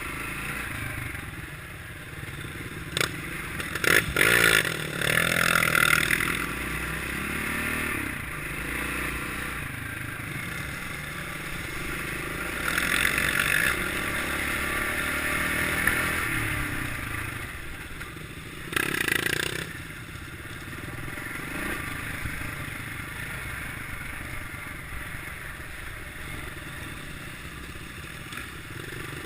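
Kawasaki KLX650R single-cylinder enduro engine running under way off-road, swelling and easing with the throttle. Loud bursts of clattering and scraping come about three to six seconds in and again around nineteen seconds.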